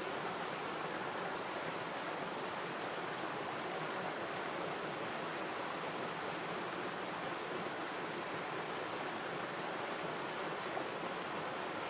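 River water flowing steadily over stones in a continuous, even rush.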